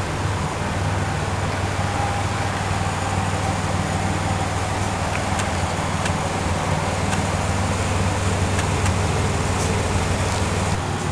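Supercharged 3.8-litre GM 3800 (L67) V6 of a 1999 Pontiac Grand Prix GTP idling steadily through an exhaust with no mufflers, a constant low hum.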